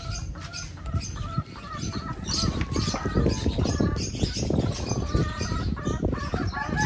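Dekalb Brown laying hens clucking and calling in their cage, with wings flapping and rustling that is busiest in the middle of the clip.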